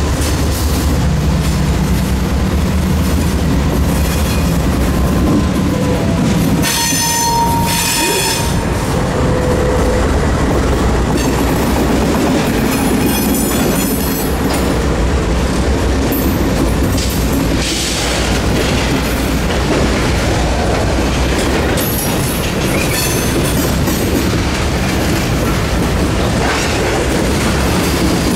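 Three GE C40-8 diesel locomotives pass close by with their engines running. Loaded tank cars then roll past, wheels clicking over rail joints, with a few brief high-pitched wheel squeals.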